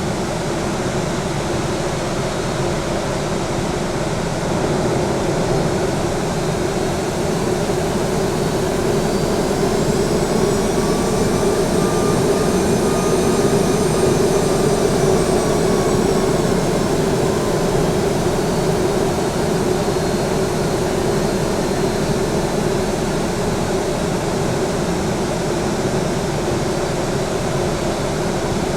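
Boeing 737-800's CFM56 turbofan engines running with a steady rushing noise. A thin turbine whine rises and then falls in pitch around the middle, as the sound swells slightly.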